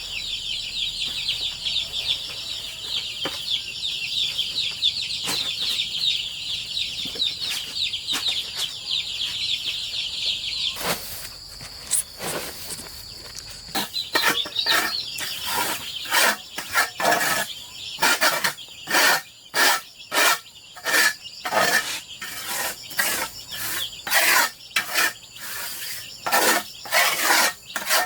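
A flock of young chickens cheeping in a dense, continuous chorus of high peeps. About eleven seconds in, it gives way to a run of repeated scraping strokes, roughly one a second, with fainter peeping between them.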